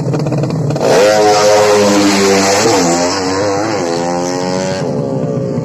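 Motorcycle engine revving hard: a steady engine note jumps louder about a second in, its pitch rising and falling in repeated blips, then settles back near the end.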